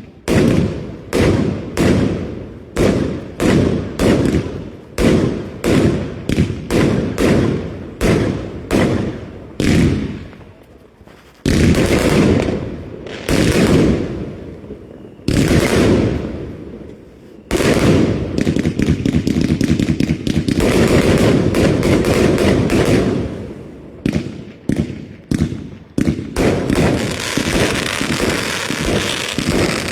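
Fireworks going off: a rapid run of sharp bangs about two a second for the first ten seconds, then a few bigger blasts with long fading tails, a long unbroken stretch of noise, and a dense spell of bangs again near the end.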